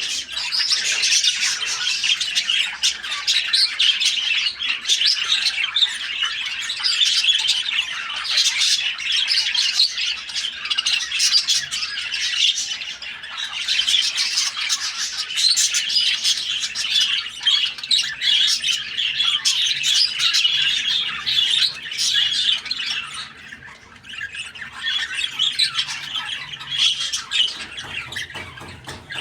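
Lovebirds squawking and chattering without a break, many high calls overlapping; the din eases briefly about three-quarters through, then picks up again more quietly.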